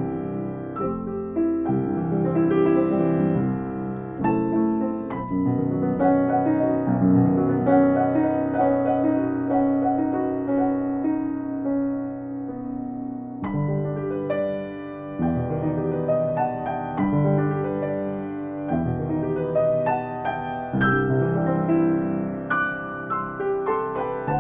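Piano playing a slow, gentle piece, notes and chords ringing out one after another.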